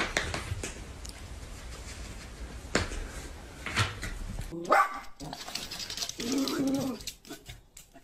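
A dog barking in short, sharp barks, several times over.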